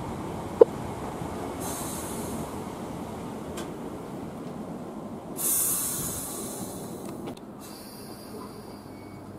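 Train rumbling along the track, with a brief sharp wheel squeal about half a second in and hissing around 2 s and again about five and a half seconds in, where it grows louder.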